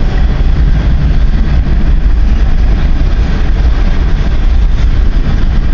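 Freight train cars rolling past, a loud steady rumble of wheels on the rails.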